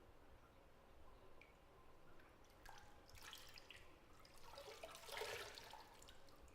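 Faint drips and small sloshes of bathwater in a tub, loudest as a short splash about five seconds in.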